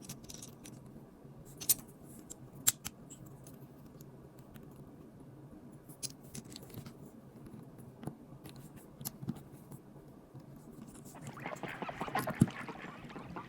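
Small plastic LEGO pieces clicking and being handled, a few sharp clicks spaced seconds apart. Near the end a denser, louder stretch of sound begins, with one sharp click in it.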